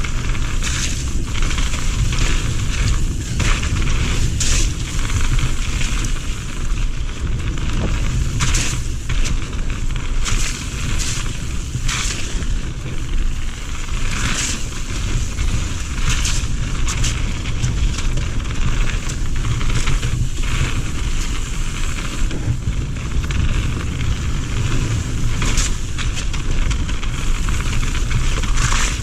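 Radon Swoop 170 full-suspension mountain bike being ridden along a dirt trail: a steady rumble of tyres and wind on the camera microphone, with frequent sharp clatters and knocks from the bike going over bumps.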